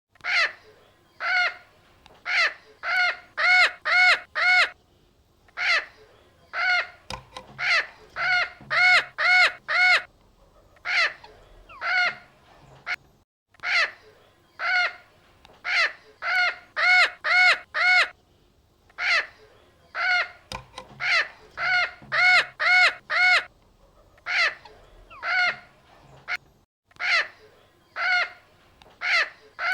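Parrot giving harsh, crow-like squawks over and over, some single and some in quick runs of four or five.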